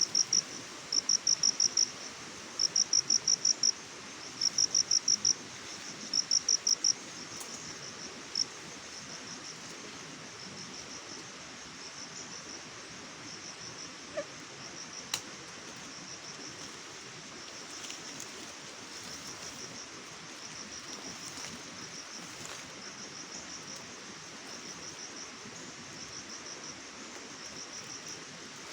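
Crickets chirping: loud, high-pitched chirps of five or six quick pulses, one chirp about every second and a half, for the first seven seconds, then fainter, steadier chirping over a soft steady hiss. A few sharp single clicks fall in the middle.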